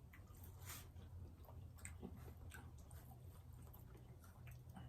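Faint chewing of food with scattered small mouth clicks, over a low steady hum.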